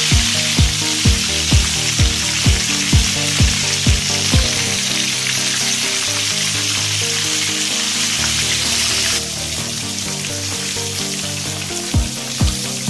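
Chicken wings frying in hot oil in a pan, a steady sizzle that drops suddenly to a quieter level about nine seconds in. Background music with held bass notes plays underneath, its drum beat at about two thumps a second stopping after about four seconds and returning near the end.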